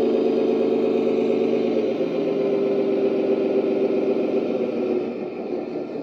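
Servonaut SM3 sound module in a 1:14 Tamiya Scania 770S RC truck playing its V8 engine sound through the model's speaker, running steadily; the note shifts slightly about two seconds in and gets quieter near the end.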